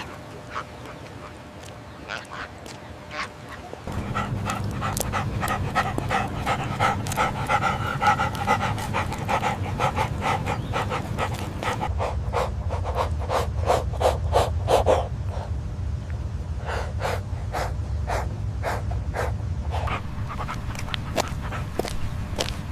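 A dog panting in rapid, repeated breaths, with a steady low hum underneath starting about four seconds in.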